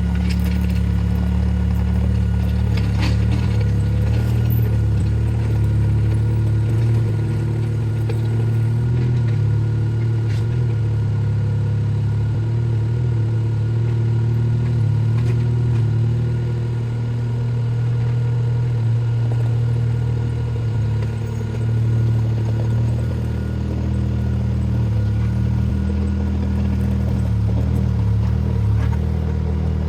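Small excavator's diesel engine running steadily with slight changes in pitch as it works, with a few clanks and clatters from the machine.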